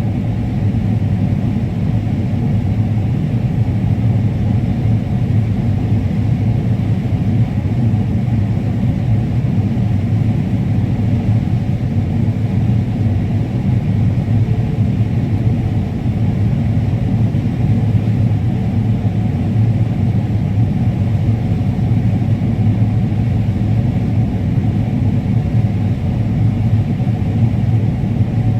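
Combine harvester running steadily while harvesting corn: a continuous low drone that stays even throughout.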